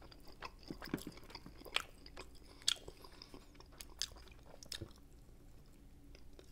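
Close-miked chewing and wet mouth smacks from eating saucy pork riblets off the bone: a string of short, irregular clicks and smacks, the sharpest a little under three seconds in, growing sparser near the end.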